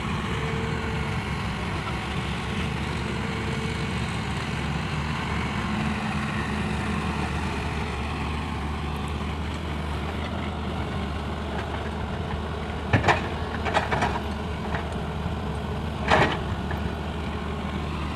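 Heavy diesel earthmoving engine running steadily at a low drone, with a few sharp knocks in the last third.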